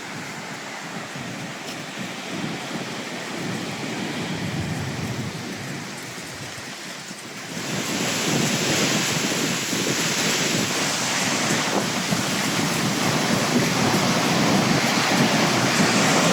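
Rough sea surf crashing and rushing in the aftermath of a storm, mixed with strong wind on the microphone. The roar jumps louder about halfway through and stays up.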